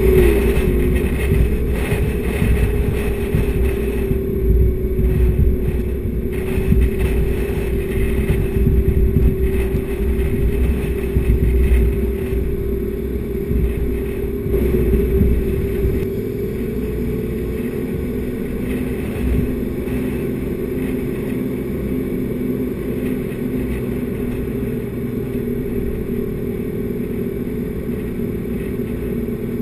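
A four-wheel drive being driven on a soft sand beach track: a steady engine note that drifts slightly in pitch, over a low rumble of tyres and wind that eases a little past halfway.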